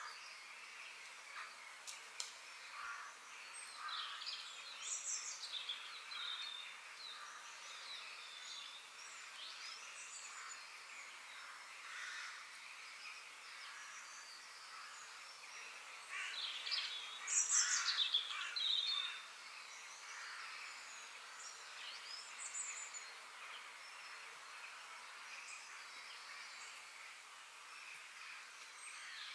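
Several forest birds singing and chirping, calls overlapping over a faint steady hiss, with a louder burst of song about seventeen to nineteen seconds in.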